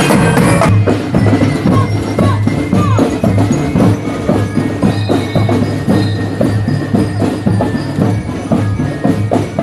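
A school marching band playing, with drums keeping a steady beat under bell-like mallet percussion.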